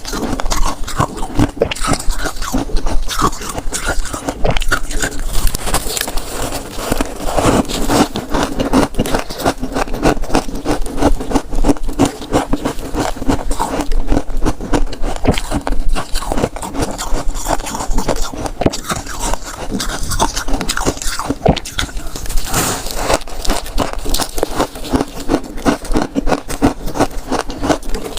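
Freezer frost being scraped and crunched close to the microphone: a dense, continuous run of rapid crackly scrapes and crunches.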